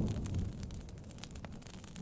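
Crackling wood fire and rain pattering on a tent, a steady hiss dotted with sharp pops and clicks. A low rumble fades out in the first half second.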